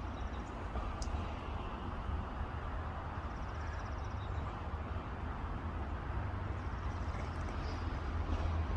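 Steady outdoor background noise with a constant low rumble, with no crow calls standing out.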